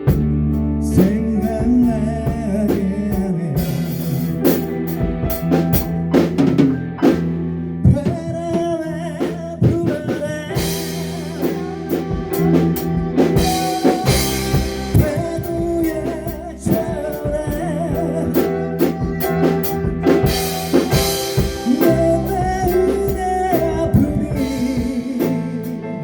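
A band playing a song live in a rehearsal room: a singer over drum kit, bass and guitar, with cymbal crashes swelling in now and then.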